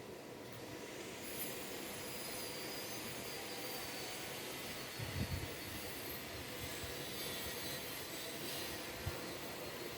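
Steady rushing background noise, with a short cluster of low thumps about five seconds in and a single thump near the end.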